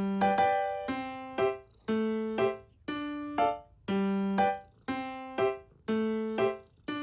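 Background music: a gentle piano melody of single struck notes in a steady, regular rhythm, each note ringing and fading before the next.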